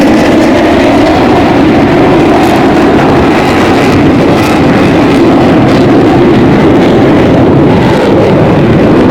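Loud, steady jet engine noise, an even rushing sound that holds at the same level throughout.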